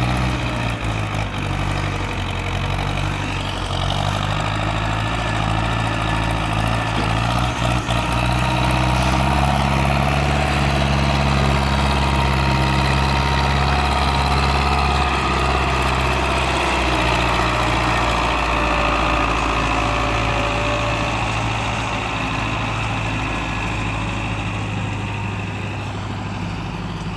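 Tractor diesel engine running steadily; its note rises about nine seconds in and falls back around seventeen seconds in.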